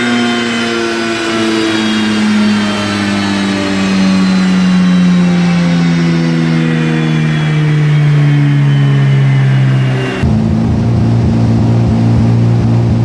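Mazda RX-7 FD's twin-turbo 13B rotary engine on a dyno, its pitch falling slowly as it winds down from high revs. About ten seconds in it drops abruptly to a steady, lower idle.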